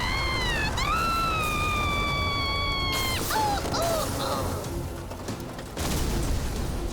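Action score from an animated race scene, with a high pitched cry that glides down, then is held for about two seconds before cutting off suddenly.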